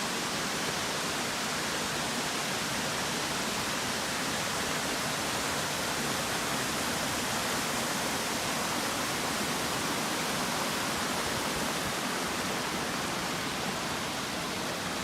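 Arethusa Falls, a tall waterfall swollen with spring high water, pouring down: a steady, unbroken rush of falling water.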